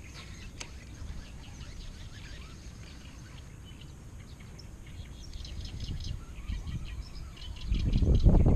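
Small birds chirping in quick, high, scattered notes over a steady low outdoor rumble, the chirping thickest in the second half. Near the end a louder low rumble rises up and is the loudest sound.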